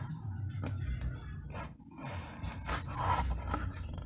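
Irregular scraping and rubbing, a series of short uneven strokes over a low steady rumble.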